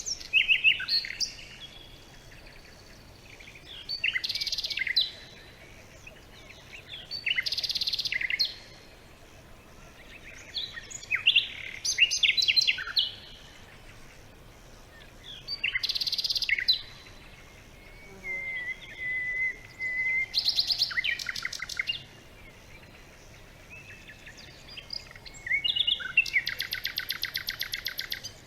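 A songbird singing short, varied phrases every three to four seconds. Midway there is a held whistled note, and near the end a long, rapid trill.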